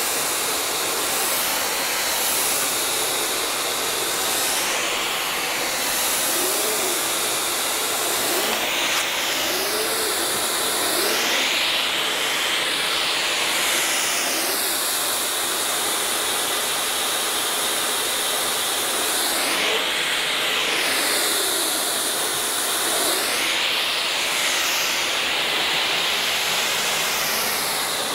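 Vacuum cleaner running continuously, its airflow hiss rising and falling in pitch every few seconds.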